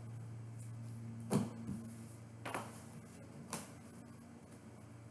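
A deck of meditation cards being handled: three short light taps about a second apart, over a faint steady low hum.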